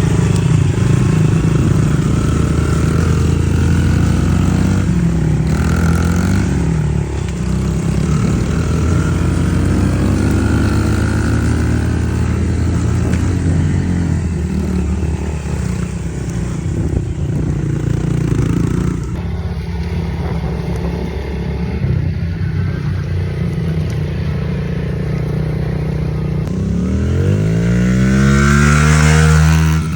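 Pit bike engine running while being ridden, its note rising and falling with the throttle. Near the end it revs up in one long rising sweep.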